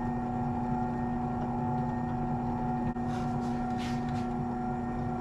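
Electric sander running steadily with a strong even hum, used to flatten a knife guard or handle part; brief hissy swells come and go around the middle.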